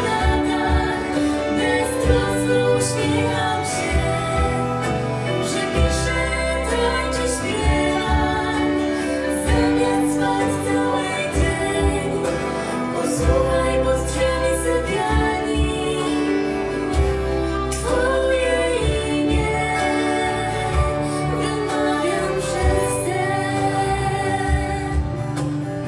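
A band playing a song live, with a singer over a steady beat and bass.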